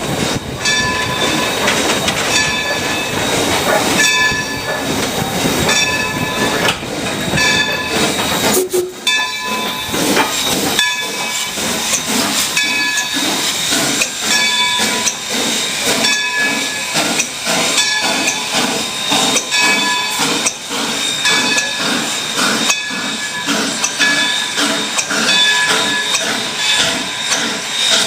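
Locomotive bell ringing steadily, about one stroke a second, over a hiss of steam that eases off about nine seconds in.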